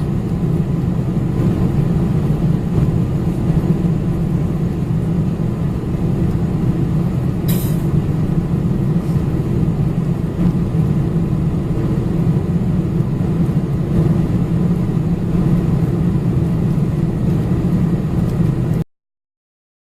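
Steady low drone of a Boeing 747-400's engines and rushing air heard inside the passenger cabin, with a brief click about seven and a half seconds in. It cuts off suddenly near the end.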